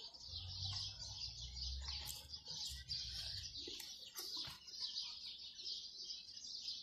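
Small bird chirping and twittering steadily, with a few light taps and rustles as foam sheets are handled.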